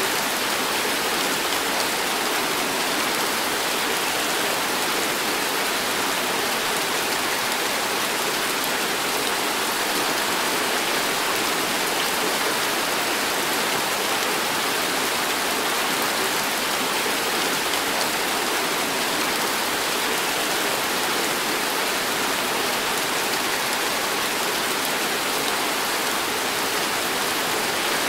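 Heavy tropical rain falling steadily on a wet paved road and shrubbery, a dense, even hiss with no letup.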